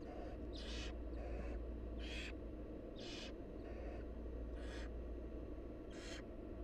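Barn owl nestlings giving their hissing, snore-like begging calls: about seven short rasping hisses, roughly one a second, some fainter than others, over a steady low hum.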